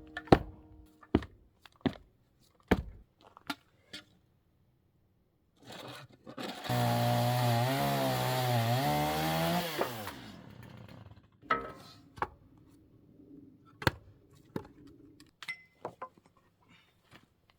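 A chainsaw runs for about three seconds in the middle, its pitch wavering, between a few sharp knocks before and after.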